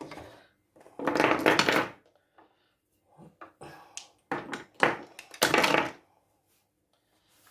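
Shelf being dusted: perfume bottles and other small objects knocked and set down with short clicks and thunks, between two longer rushing, rubbing noises of about a second each.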